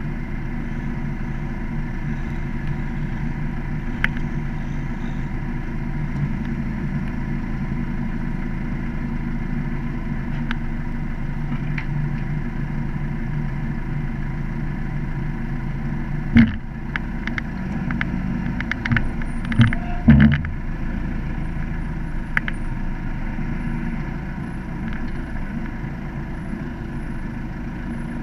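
An off-road 4x4's engine running steadily as it crawls down a rough grassy slope. A sharp knock comes about sixteen seconds in, and a cluster of knocks and clunks follows a few seconds later.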